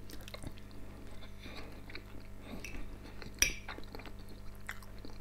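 Close-up mouth sounds of a man chewing a mouthful of pelmeni, with small faint clicks, and a fork clinking once against a plate about three and a half seconds in.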